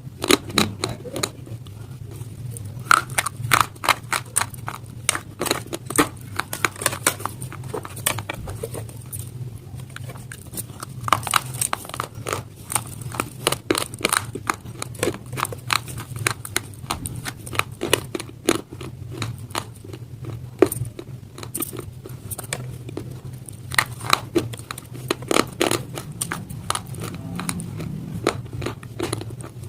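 Close-up biting and chewing of hard slate stone pieces: rapid sharp cracks and crackles in clusters, with short pauses between, over a steady low hum.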